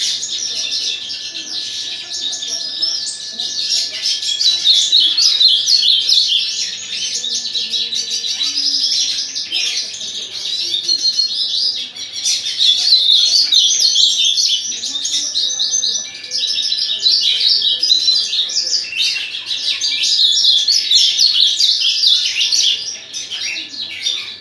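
Several caged songbirds, among them a pintagol (hooded siskin–canary hybrid), a hooded siskin, an ultramarine grosbeak and a cardinal, singing together in a dense, continuous twittering chorus. A faint steady high hum runs beneath the song.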